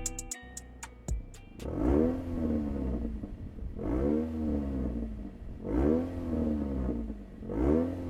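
Lexus NX200t's 8AR-FTS 2.0-litre turbocharged four-cylinder revved through an aftermarket valved cat-back exhaust. It gives four short blips about two seconds apart, each rising in pitch and falling back to idle.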